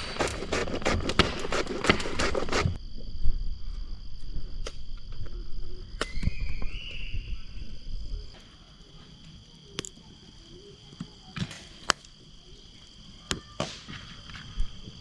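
Crickets chirring steadily in a high, even trill, with scattered sharp clicks and a short chirp. A dense, loud run of clicks cuts off suddenly about three seconds in.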